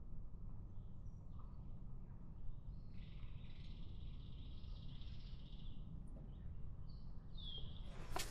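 Birds calling over a steady low rumble of outdoor ambience: a drawn-out, buzzy higher call from about three to six seconds in, a short downward call near the end, then a sharp click.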